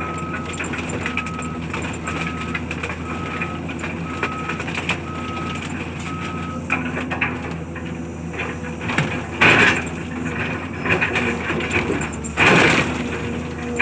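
Heavy demolition machine's diesel engine running steadily while its reversing alarm beeps about once a second, seven times. After the beeping stops, there are loud crunching bursts of debris being broken, about nine and a half and twelve and a half seconds in.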